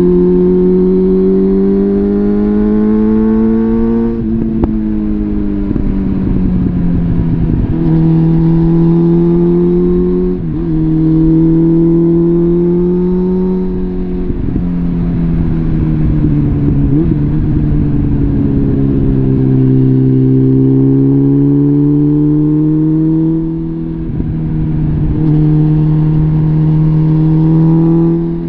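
Suzuki GSF650 Bandit's inline-four engine through a full Arrow exhaust system, under way. The note climbs under throttle, drops sharply at a gear change about four seconds in, and later sinks slowly as the throttle eases off before climbing again. There is another brief dip near the end.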